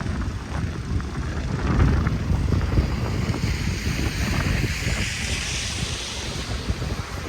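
Wind buffeting the microphone in gusty low rumbles, with a broad hiss that swells and fades in the middle.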